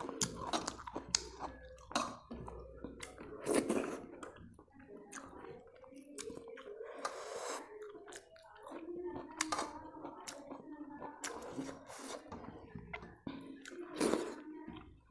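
Chewing and wet mouth sounds of a person eating rice and soup by hand, with many sharp mouth clicks and lip smacks scattered throughout.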